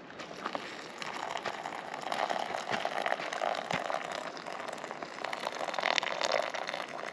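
Hot water bubbling and splashing in a camp cooking pot: a busy, crackly rush of small bubbles and drips that cuts off suddenly at the end.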